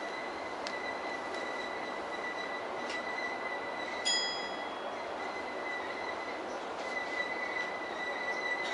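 Stationary E231-series electric train's onboard equipment running: a steady high whine over a hiss, with a few faint clicks and a brief beep about four seconds in.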